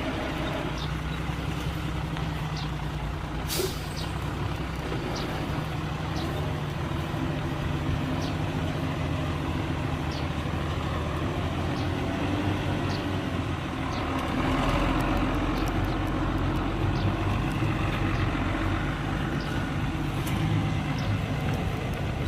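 Heavy diesel construction machinery engine running steadily, with a brief sharp sound about three and a half seconds in. The engine grows louder and deeper about fourteen seconds in.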